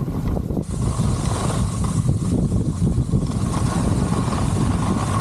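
Wind rushing and buffeting over the microphone while skiing downhill, a steady low rumble with the hiss of skis sliding on snow.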